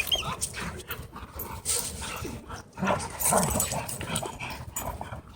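Dogs wrestling roughly, with scuffling and short, irregular dog vocalizations, loudest about three seconds in.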